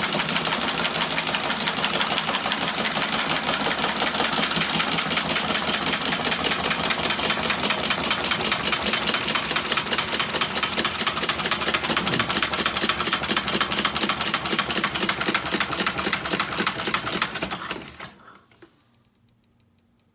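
Two-cylinder model engine made from a Schwinn bicycle pump, running fast on compressed air: a rapid, even clatter of piston and valve strokes with air hissing out. It runs down and stops about eighteen seconds in.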